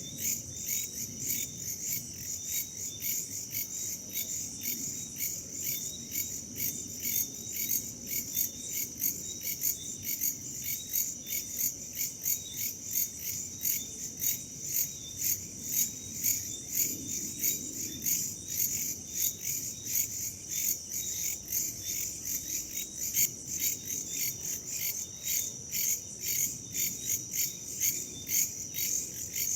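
Crickets and other insects chirping in a dense, steady chorus of quick regular pulses, high-pitched, over a low rush of wind.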